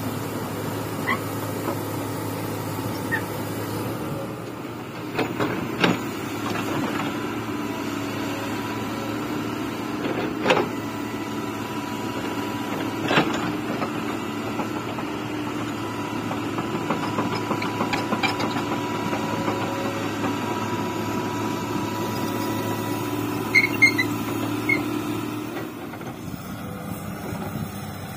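Komatsu excavator's diesel engine running steadily as it digs, its note changing about four seconds in and again near the end, with several sharp clanks of the bucket and boom scattered through.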